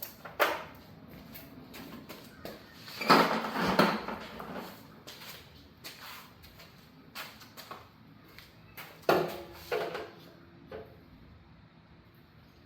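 Knocks, clunks and scraping from handling hardware during a water heater install, with a louder clattering scrape about three seconds in and a sharp knock with a brief metallic ring about nine seconds in.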